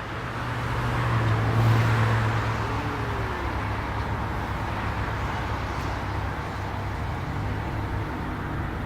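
Exhaust of a straight-piped Nissan GT-R R35's twin-turbo V6 running steadily, growing louder over the first couple of seconds and then holding level.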